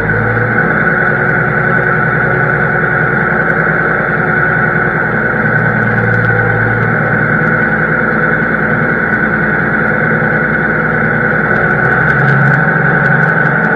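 Diesel engine of harvest machinery running steadily under a constant high whine; the engine note shifts slightly near the end.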